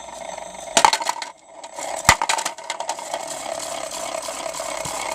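Toy washing machine's small motor turning its drum with bricks inside, the bricks rattling and scraping steadily. It drops out briefly about a second and a half in, with a sharp knock just before and another just after.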